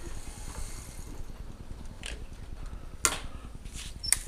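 A few sharp clicks and taps as a handheld gripper tool grabs at a ceramic bowl, over a low steady hum. The loudest click comes about three seconds in.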